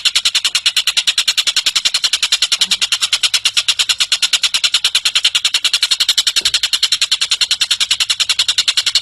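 Tengek cililin bird calling in a continuous rapid trill of sharp, high notes, about a dozen a second, evenly spaced and unbroken.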